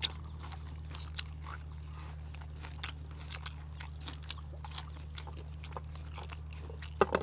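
People biting into and chewing crispy battered fried onions stuffed with beef: soft, scattered crunching clicks throughout over a steady low hum, with a couple of sharper clicks near the end.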